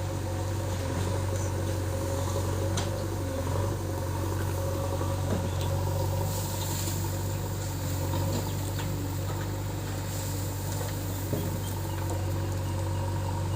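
Heavy diesel engine running steadily at an even pitch, with no revving.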